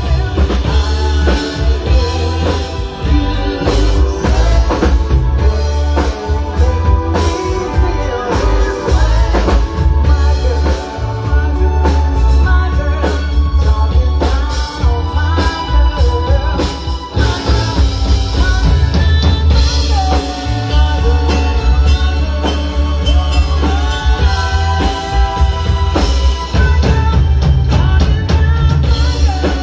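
Live band playing a song: drum kit with a heavy bass line, with sung or instrumental melody lines over it.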